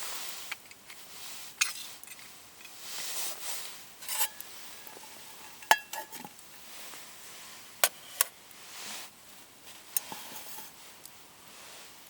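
Camp cookware and utensils being handled: soft rustling with about six sharp clinks and knocks spread through, a couple of them with a brief metallic ring.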